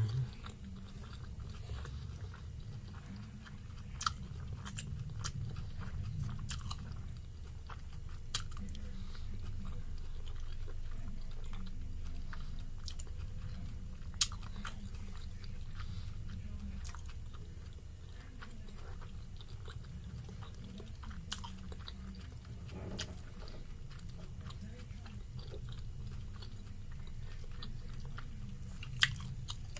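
A person chewing a mouthful of pan-fried dumpling with her mouth closed: steady soft wet mouth sounds, with a few short sharp clicks scattered through.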